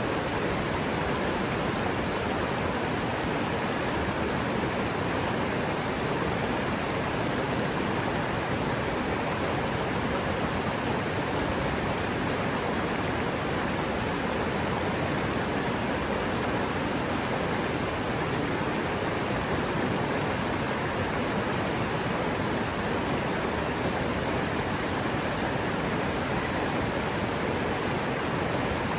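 River water running, a steady, even rush with no breaks.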